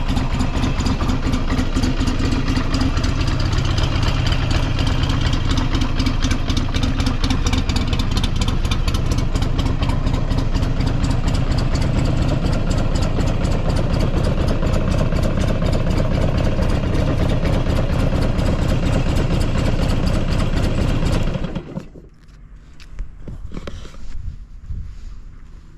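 Buell XB12SCG Lightning's air-cooled V-twin idling steadily, then switched off about 21 seconds in. A few faint knocks follow.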